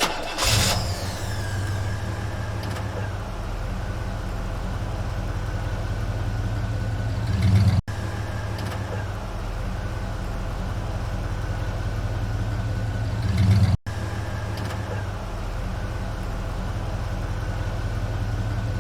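Steady low engine-like drone, repeating in nearly identical stretches of about six seconds, each swelling briefly before cutting off abruptly.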